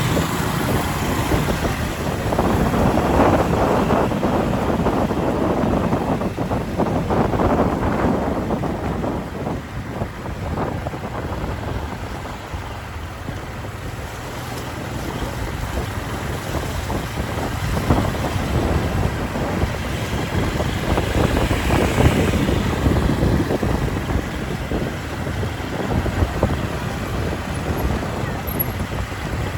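Wind buffeting the microphone of a moving motorcycle, with vehicle engine and traffic noise underneath, swelling and easing as the ride goes on.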